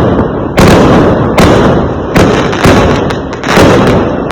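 Fireworks exploding: a run of five loud bangs, a little under a second apart, each fading away before the next.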